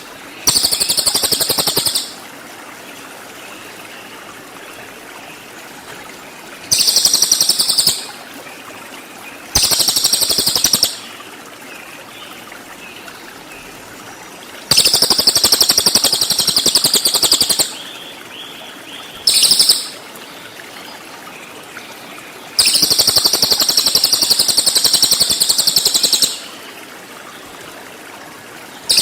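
A cililin songbird giving rapid, dense, high-pitched trills ('tembakan' shots), six bursts from half a second to about four seconds long with short pauses between, over a steady hiss.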